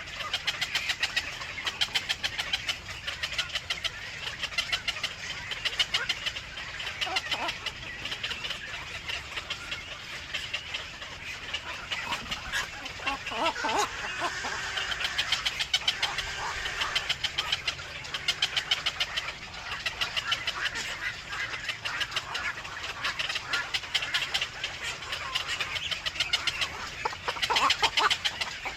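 Nestling birds chirping in a rapid, continuous stream of short high calls, with a few lower calls about halfway through.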